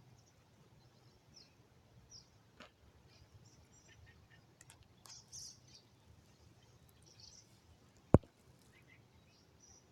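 Faint scattered chirps and whistles of songbirds in spring woodland, with one sharp knock about eight seconds in.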